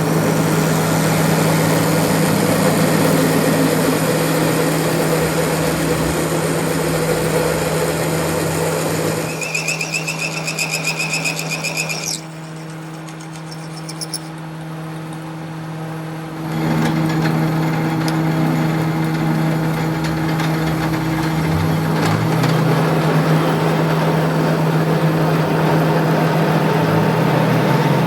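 A machine running steadily with a constant low hum. About ten seconds in, a fast pulsing high tone joins for a couple of seconds, then the sound drops quieter for a few seconds before the steady running returns.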